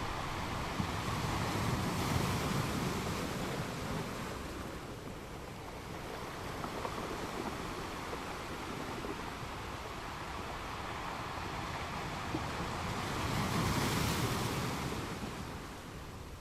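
Ocean waves breaking on a beach in a continuous wash, with two waves swelling louder, about two seconds in and again near the end.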